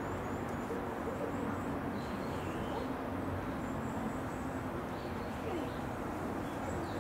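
Steady background noise with faint, scattered bird chirps and calls.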